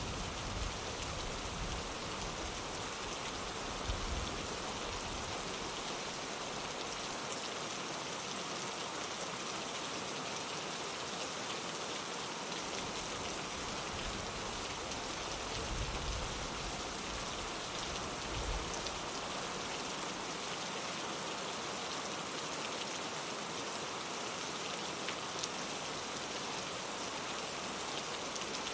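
Steady rain falling on a window, an even hiss of drops, with a low rumble swelling briefly a few times.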